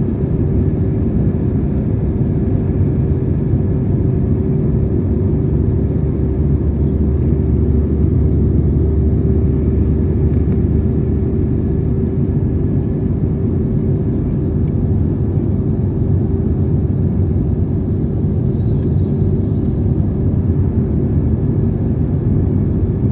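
Steady cabin noise of an airliner in flight: an even, loud rumble of engines and rushing air with a constant low hum running through it.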